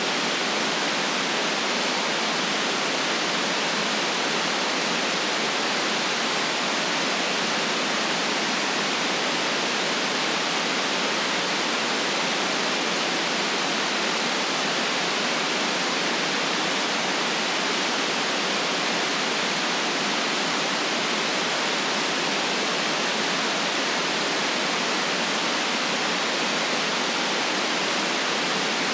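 Steady white noise: an even, unchanging hiss with no low rumble and no changes.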